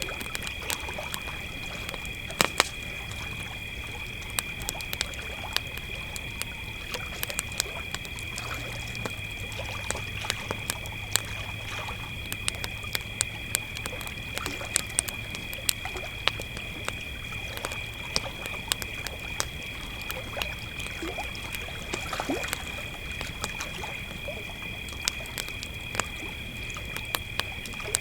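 Crickets trilling in a steady high chorus over a campfire crackling, with frequent sharp pops and snaps from the burning wood.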